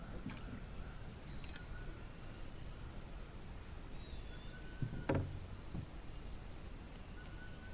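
Natural outdoor ambience: a steady high insect drone with a few faint bird calls over a low rumble, and one short soft knock about five seconds in.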